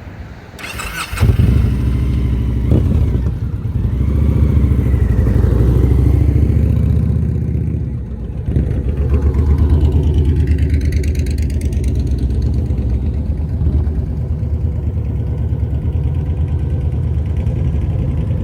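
Motorcycle engine coming in loudly about a second in, then running steadily at low speed, swelling and easing with the throttle and dipping briefly around the middle, as in slow-speed riding in the friction zone.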